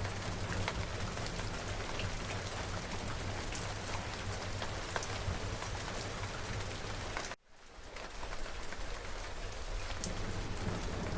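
Steady rain falling, with individual drops ticking over a low rumble. About seven seconds in, the sound cuts out suddenly and fades back in over about a second.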